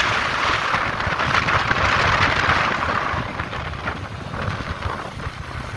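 Wind rushing over the microphone of a moving motorcycle, with a low road and engine rumble underneath. The rush eases off after about three seconds.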